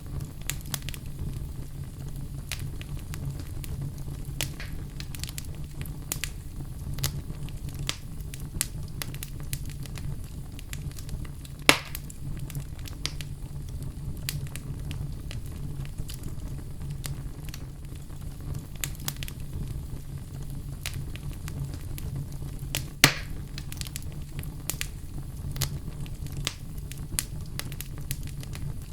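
Wood fire in a fireplace crackling, with a steady low rumble under a constant scatter of small pops. Two louder, sharper pops stand out, about 12 seconds and 23 seconds in.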